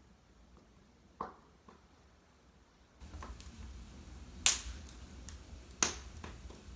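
Wood fire burning in a fireplace, crackling with scattered sharp pops and snaps; the two loudest pops come a little past halfway, over a faint steady hiss.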